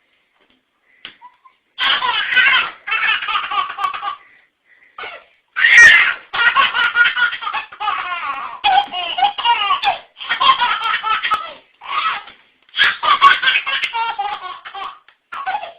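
A baby laughing hard, fit after fit with short pauses between, starting about two seconds in.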